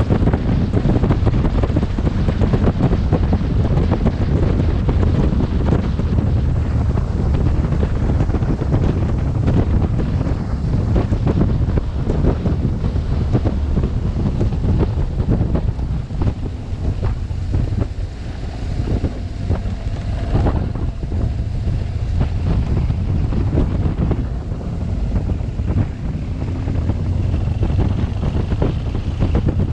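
Wind buffeting a helmet camera's microphone on a moving motorcycle: a loud, steady, low roar that dips a little about halfway through.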